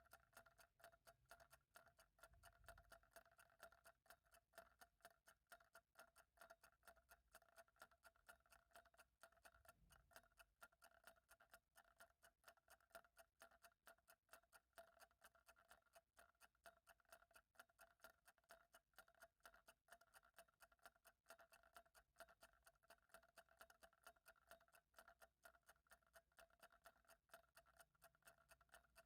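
Faint clock ticking in an even, steady rhythm of several ticks a second.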